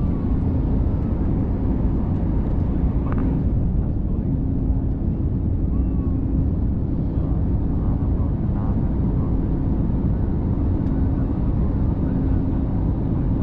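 Steady airliner noise: a loud, even rush of engine and airflow with a constant low hum running through it. Faint voices can be heard underneath.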